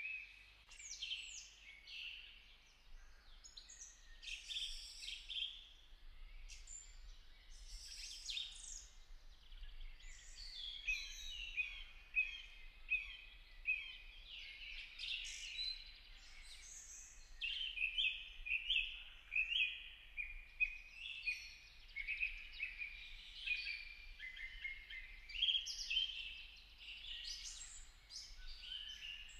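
Several birds chirping and calling at once: many short high notes and whistles follow one another closely, overlapping.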